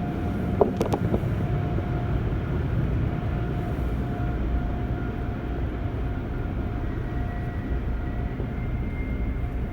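Steady low drone of automatic car wash tunnel machinery and the car, heard from inside the car's cabin, with a faint steady whine and a few light clicks about a second in.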